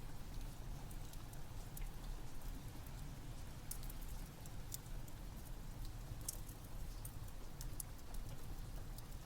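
Rain falling steadily with a wood fire crackling: a low, even rumble under many small, sharp crackles and pops scattered throughout.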